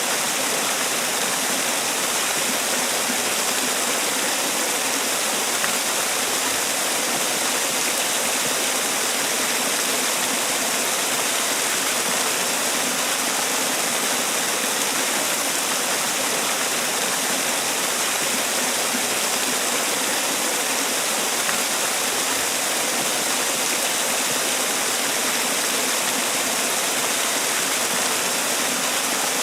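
Man-made waterfall: water pouring and splashing steadily with a constant, even rush.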